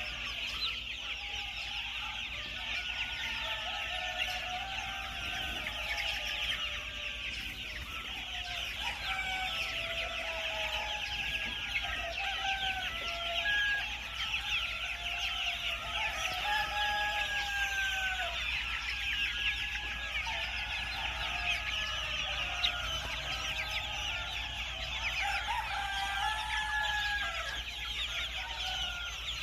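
A flock of free-range white ogolgye (silkie-type black-bone) chickens clucking and calling continuously, many short overlapping calls, over a steady high-pitched buzz.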